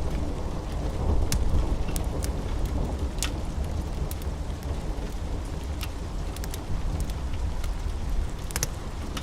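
Steady rain with a low rolling rumble of thunder that swells about a second in. Over it come scattered sharp pops and crackles from a wood fire.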